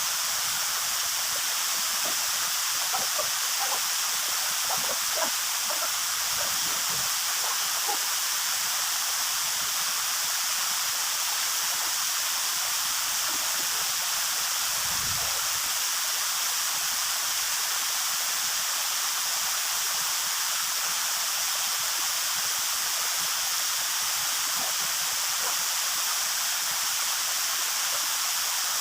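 Waterfall rushing steadily: an even, unbroken hiss of falling water. A few faint knocks come through it about three to five seconds in.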